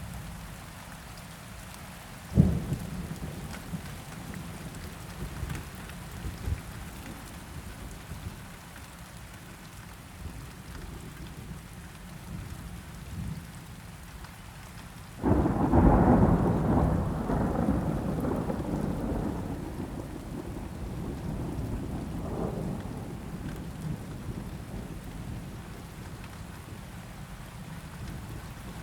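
Steady rain with thunder: a short sharp crack about two seconds in, then a loud rumble that starts suddenly about halfway through and rolls away over several seconds.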